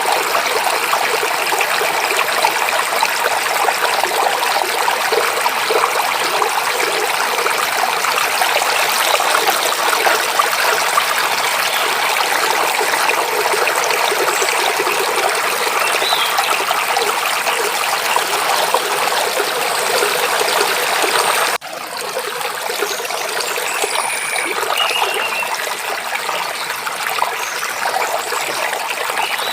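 Steady rushing and babbling of a forest stream over rocks. About two-thirds of the way through it cuts suddenly to a slightly quieter stretch of flowing water, with a few faint bird chirps above it.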